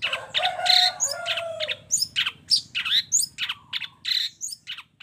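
Long-tailed shrike (cendet) song: a fast run of sharp, high chattering notes, about four a second, with a denser tangle of mixed calls and lower warbling notes in the first two seconds.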